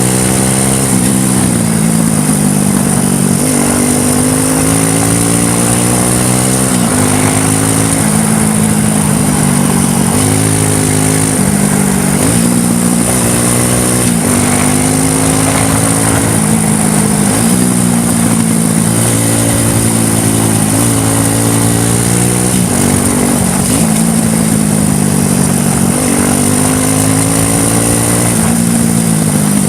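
ATV quad bike engine running hard, its pitch rising and dropping back again and again every few seconds as the throttle is worked.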